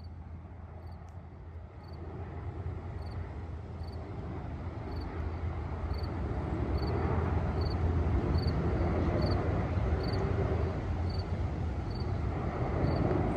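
Boeing 787-9 Dreamliner jet on approach, its engine rumble growing steadily louder as it comes in overhead. Crickets chirp about once a second throughout.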